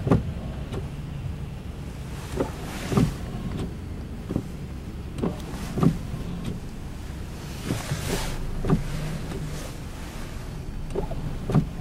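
Car interior noise in slow traffic: a steady low engine and road rumble, with short knocks, the strongest coming about every three seconds.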